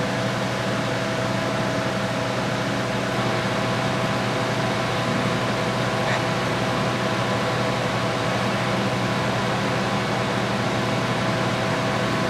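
Engine running steadily at a constant speed: an even hum with a few held tones and no revving.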